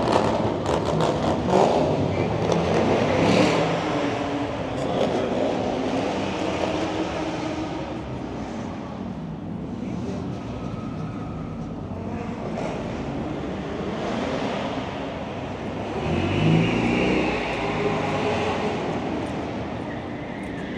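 Car engines running and revving as cars drive around, loudest in the first few seconds, with another engine rising in pitch and getting louder about two-thirds of the way through.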